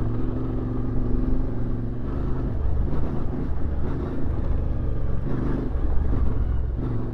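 CFMoto 450MT's parallel-twin engine running while the motorcycle rides along, holding a steady note for the first couple of seconds before the pitch shifts, over a constant low rumble.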